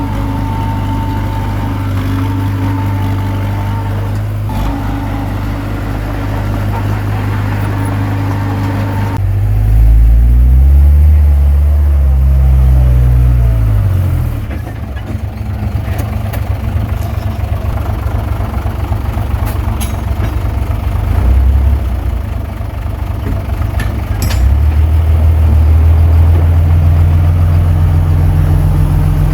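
Heavy diesel engine running steadily, then revving under load about nine seconds in, its pitch rising and falling for several seconds before it settles lower; it works harder again near the end.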